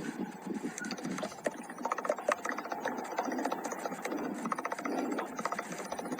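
Dense, irregular tapping and clicking over a steady hiss, thickest in two stretches, consistent with raindrops striking a hard surface in a thunderstorm.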